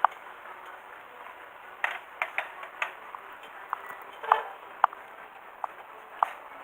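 Scattered sharp metallic clicks and clinks of small metal objects being handled, a few a second at irregular spacing, over a steady hiss; no engine is running.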